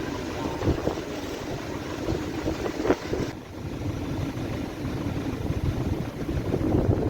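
Strong nord-ost (bora) wind gusting and buffeting the microphone, a low rumble that rises and falls with the gusts; the higher hiss drops away about three seconds in.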